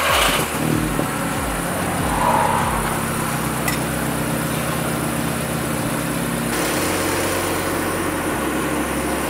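Audi TTS turbocharged four-cylinder engine idling just after being started, its revs settling in the first second and then running steadily.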